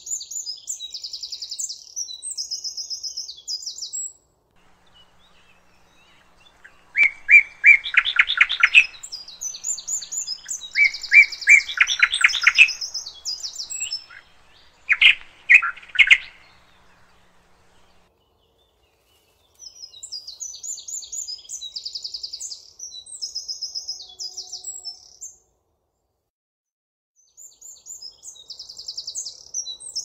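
Songbirds singing. One bird repeats a high, thin, rapid trilling phrase a few seconds long, over and over with short silent gaps. In the middle a second bird's lower and louder song joins in.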